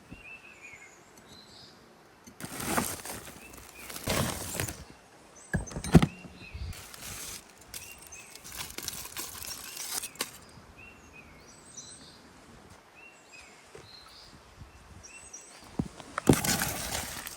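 Small birds chirping faintly, with several long bursts of rustling, scraping noise and a sharp knock about six seconds in.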